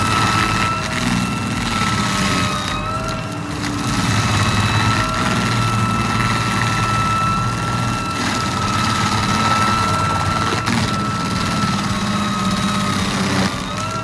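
Heavy forestry machine running steadily, its engine and drive making a constant high-pitched whine over a dense mechanical rumble.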